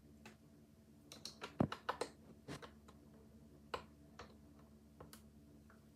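Handling noise: a string of irregular light clicks and taps, bunched together between about one and three seconds in, with a few scattered single clicks after, over a faint steady hum.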